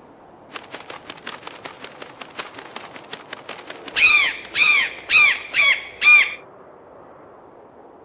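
A rapid run of light clicks, then five loud bird calls about half a second apart, each rising and falling in pitch like a caw or squawk.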